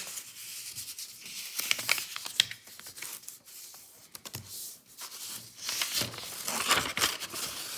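A sheet of paper being folded and creased by hand: irregular rustling and crinkling with short sharp crackles, busiest near the end.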